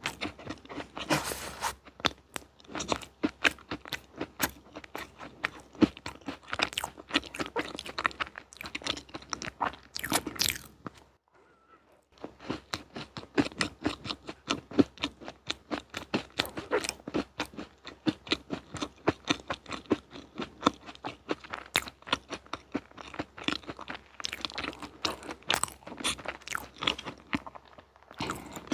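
Close-miked eating of crunchy sweets: a person biting and chewing, with a dense run of crisp crunches. The chewing stops for about a second a little before the middle, then carries on.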